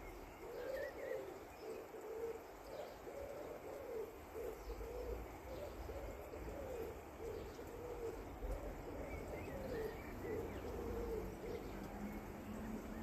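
A bird gives a run of low hooting notes, roughly one a second, with a few faint higher chirps from another bird.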